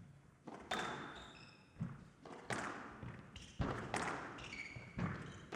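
Squash rally: the ball smacked by rackets and hitting the court walls about once a second, each strike ringing briefly in the hall, with short high squeaks of court shoes between shots.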